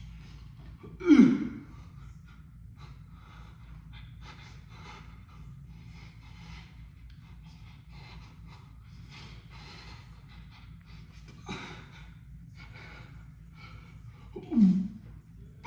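A man gasping and breathing hard from exertion, winded from a hard exercise set. Two loud gasps fall in pitch, about a second in and near the end, with a smaller one between.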